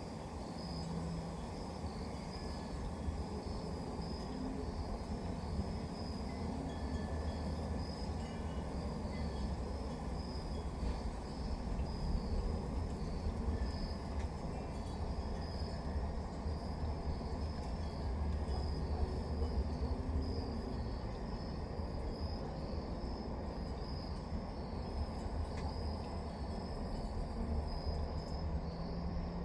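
Crickets chirping in a steady fast pulsing trill, over a continuous low rumble that swells slightly now and then.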